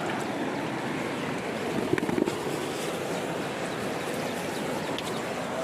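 Steady rushing of flowing river water, with a brief cluster of knocks about two seconds in.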